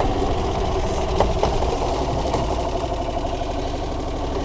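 Single-cylinder gas engine of a 1993 Club Car golf cart running steadily, with a few faint clicks.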